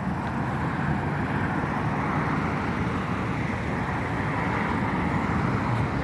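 Steady, even roar of distant engine noise around an airport, with no single event standing out.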